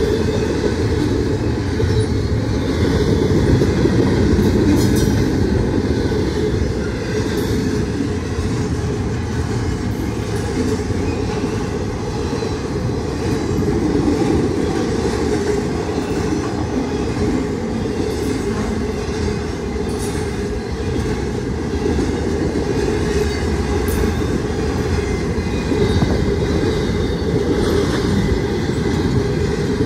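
Norfolk Southern intermodal freight train's double-stack well cars rolling past at a level crossing: a steady, low rumble of steel wheels on the rails.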